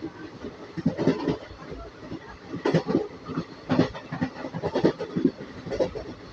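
Train wheels clattering over rail joints: groups of sharp knocks about once a second over a steady running rumble.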